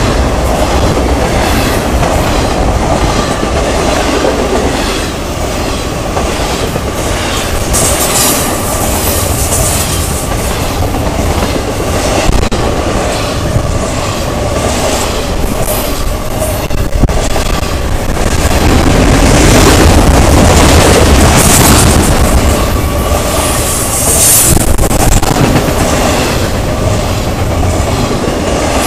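Intermodal freight cars carrying highway trailers rolling past close by: a steady rumble and rattle with wheels clicking over the rail joints, and brief high wheel squeals a few times.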